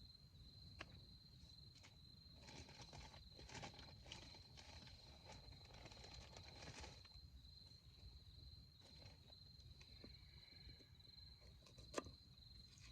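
Faint, steady high-pitched insect trill, like an autumn cricket, with scattered light crackles through the middle and a single sharp click near the end.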